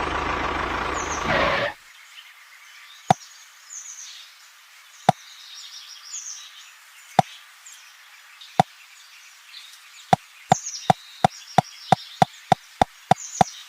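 Sharp single knocks, as of a small tool striking a hard object: four spaced a second or two apart, then a quick even run of about three a second near the end, with faint high bird chirps between them. A noisy music bed cuts off suddenly about a second and a half in.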